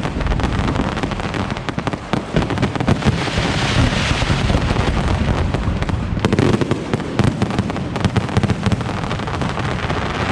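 Aerial fireworks display firing continuously: rapid, overlapping bangs and crackling over a steady low rumble.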